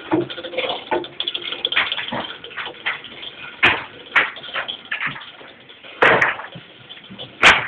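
Irregular metal rattling and clinking of chain and hoisting gear as a Caterpillar 3412 crankshaft is lowered, broken by a few sharp metal clanks about midway and near the end.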